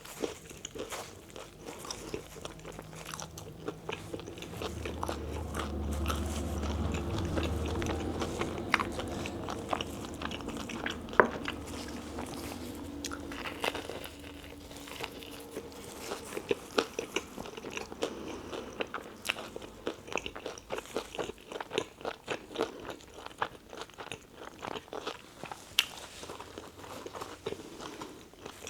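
Close-miked biting and chewing of a tuna melt sandwich: crunchy bites and a steady run of small mouth clicks. A low hum swells from about four seconds in and fades out by about fourteen seconds.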